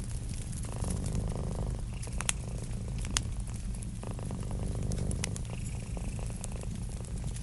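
Cat purring steadily, with a crackling wood fire behind it that gives a few sharp pops.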